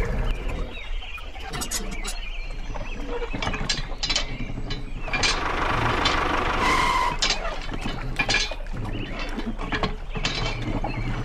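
Small mechanism of a miniature model drawbridge clicking and ratcheting as its deck is tilted up by its actuator arms, over a low steady hum.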